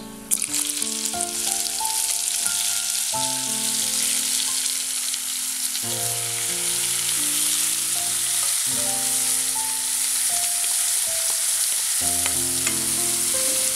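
Marinated chicken hitting hot coconut oil and whole spices in a pan, sizzling steadily as it is scraped in from a bowl with a spatula. Soft background music with held notes plays under it.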